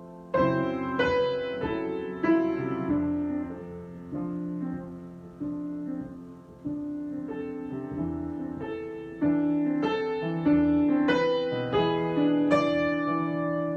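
Solo piano improvisation: chords and single notes struck at an unhurried pace and left to ring, growing louder from about nine seconds in.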